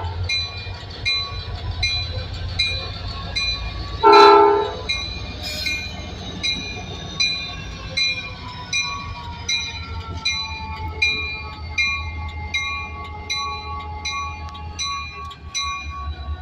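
An EMD SD40-2 diesel locomotive sounds one short horn blast about four seconds in, over the steady rumble of its engine. A bell rings steadily throughout at about two strikes a second.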